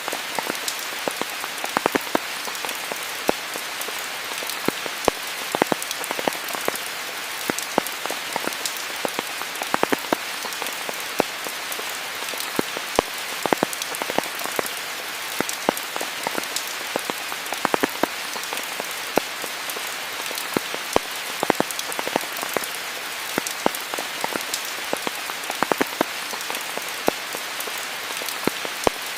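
Steady rain falling in a rainforest, a dense even hiss with many close, sharp individual drops striking irregularly throughout.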